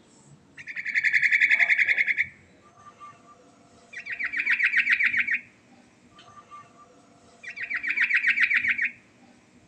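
Yellow-vented bulbul (trucukan) singing: three fast trilling phrases of about a second and a half each, a second or so apart.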